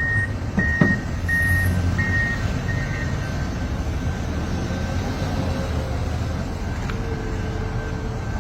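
Heavy diesel machinery running with a low rumble while a backup alarm beeps steadily, a little under twice a second, and fades out about three seconds in.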